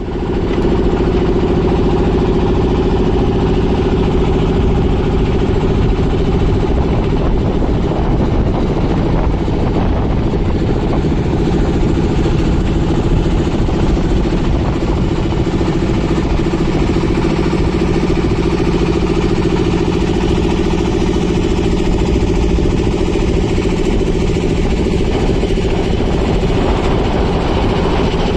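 Boat engine running steadily at an unchanging speed. It starts abruptly and holds a constant low pitch.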